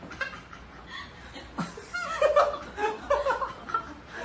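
A person laughing in a run of short bursts, starting about one and a half seconds in.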